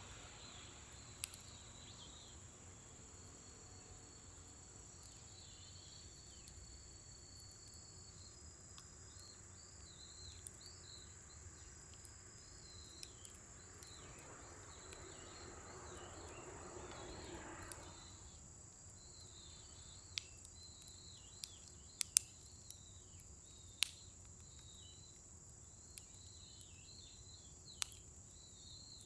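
Scrap-wood bonfire in a fire pit burning quietly, with a handful of sharp pops and cracks, the loudest in a cluster a little past the middle. Insects chirp steadily in the background, and a soft rushing sound swells for a few seconds and then cuts off.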